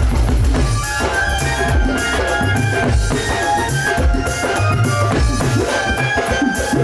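Live band music with a steady drum beat under melodic instruments.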